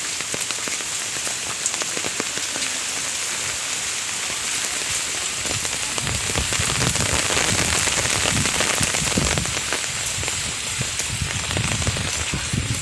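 Steady rain falling, a dense patter of drops striking surfaces. A low rumble comes and goes in the second half.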